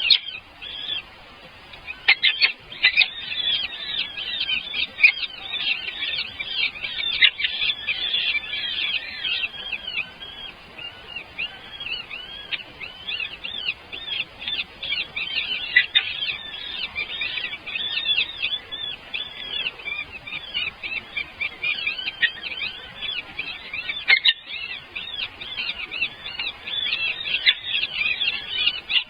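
Baby birds chirping in a dense, unbroken stream of short, high calls: the begging calls of nestlings waiting to be fed.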